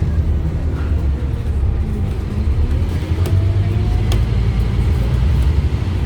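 Scania N230UD double-decker bus under way, its Scania DC9 five-cylinder diesel giving a heavy, steady low rumble. A faint whine rises about three seconds in, and there are a couple of sharp clicks or rattles.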